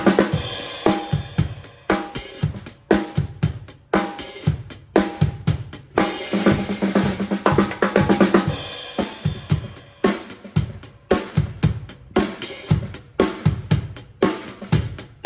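Acoustic drum kit played in a steady groove with fills: snare drum hits over bass drum and cymbals, recorded through a phone's built-in microphone with no external mic or processing.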